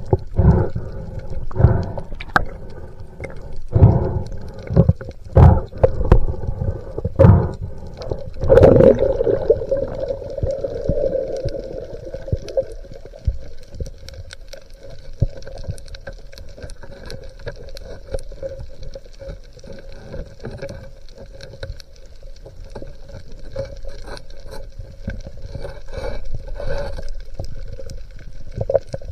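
Water sounds picked up by a spearfisher's camera in the sea: a run of knocks and thumps with gurgling for the first several seconds, then steady water noise with fine crackling clicks.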